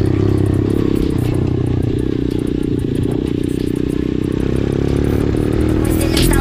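Single-cylinder four-stroke engine of a Minirocket Superpit 125 pitbike running at a steady speed while riding.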